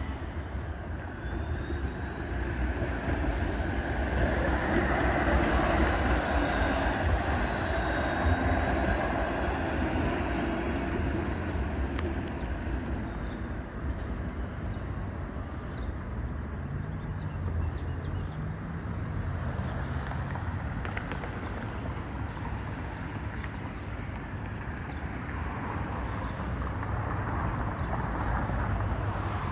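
Street traffic: a steady low rumble with a passing vehicle that swells up over the first few seconds and slowly fades away.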